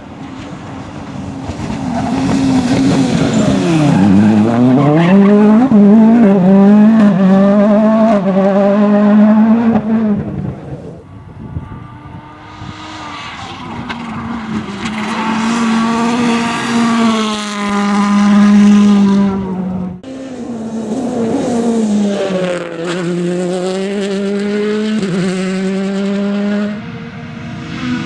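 World Rally Cars' turbocharged 1.6-litre four-cylinder engines running hard in several passes in turn. The revs drop sharply and climb back through gear changes, hold at a steady high note, then fade before the next car comes through.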